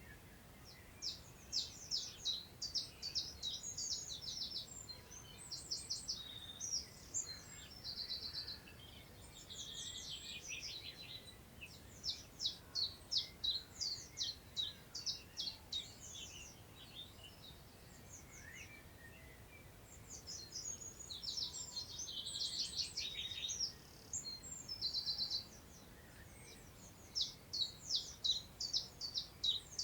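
Songbirds singing in fast, high-pitched phrases of quick repeated notes, each lasting a few seconds and coming again after short pauses. A faint, steady rush of wind in long grass sits underneath.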